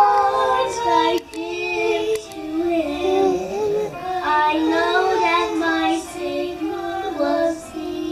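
A child singing a slow tune with long held notes.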